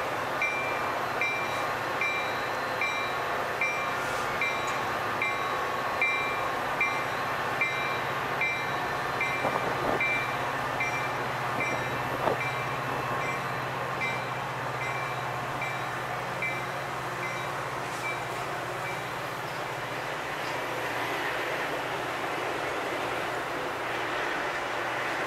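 A Metra commuter train with its diesel locomotive running at the station, over a steady low hum and rumble. A warning bell rings at an even beat of about one and a half strokes a second, then stops about two-thirds of the way through.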